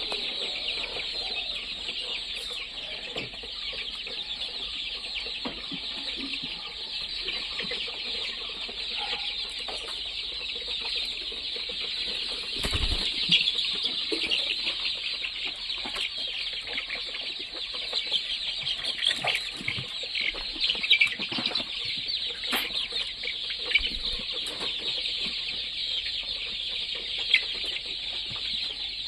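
A large flock of chickens chattering and clucking together in a dense, continuous din, with a few brief louder clicks standing out.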